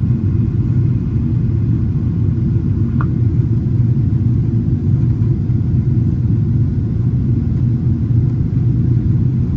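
Steady low rumble of a Boeing 777-300ER's cabin in cruise flight: engine and airflow noise, with no change in level.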